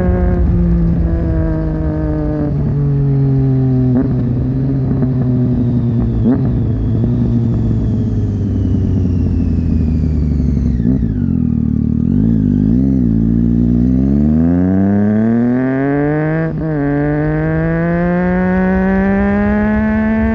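Triumph Street Triple 675's three-cylinder engine through a Leovince 3-2 exhaust with DB-killer fitted, on the move. The revs step down as the bike slows, hover low and waver for a few seconds around the middle, then climb steadily as it accelerates, with a brief dip near the end of the climb.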